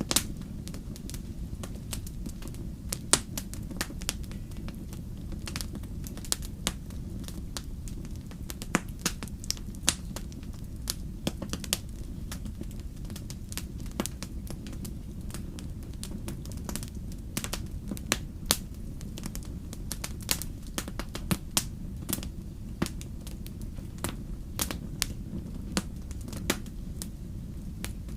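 Wood fire crackling: a steady low rumble of flames with irregular sharp pops and snaps from the burning logs, a few louder pops among them.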